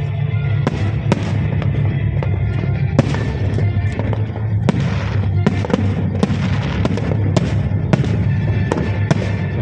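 Aerial fireworks bursting: about a dozen sharp bangs at irregular intervals over music playing through loudspeakers.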